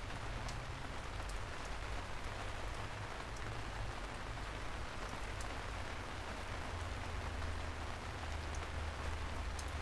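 Steady rain falling on a surface, an even hiss with scattered small drop ticks and a low rumble underneath.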